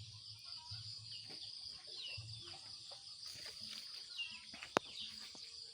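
Steady high drone of insects with several short, falling bird chirps, and one sharp click about three-quarters of the way through.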